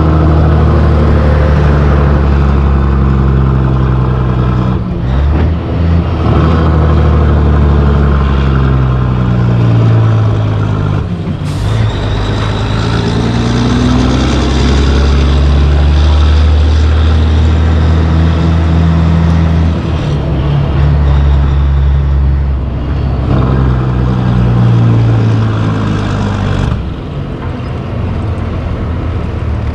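Peterbilt 362 cabover's diesel engine pulling through the gears, its pitch climbing and dropping with several shifts. A brief hiss of air cuts in once near the middle.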